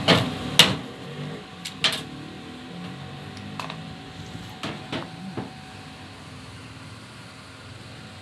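A series of sharp knocks and taps at uneven intervals, the loudest in the first two seconds and a cluster of three a little past the middle, over a faint steady hum.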